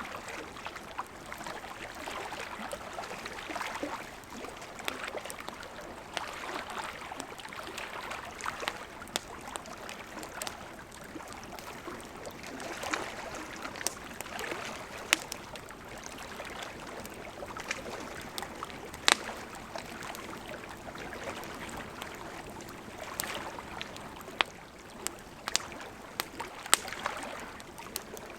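Campfire crackling with irregular sharp pops, a few of them louder, over the steady lapping and trickling of lake water at the shore.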